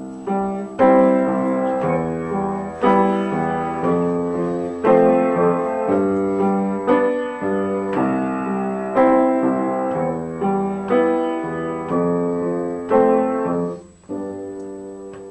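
Piano playing a slow introduction: a chord struck about every two seconds and left to ring and fade.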